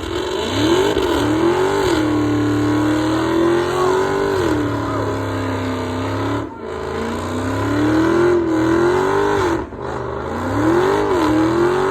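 Car engine revved hard and repeatedly at a show, its pitch climbing and falling again and again and held high for a few seconds at a stretch. The sound dips sharply twice, once just past halfway and again near the end, when the throttle is let off.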